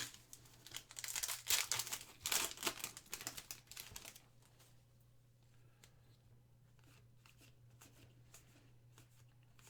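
Foil trading-card pack wrapper being torn open and crinkled: a run of tearing and rustling over the first four seconds. After that only faint clicks remain.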